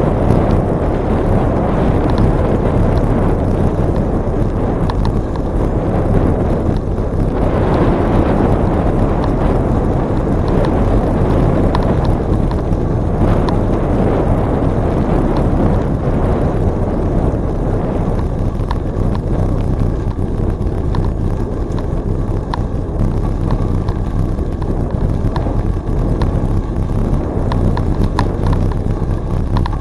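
Wind buffeting the microphone of a bicycle-mounted camera during a ride, a steady low rumble, with tyre and bike noise and a few faint scattered ticks.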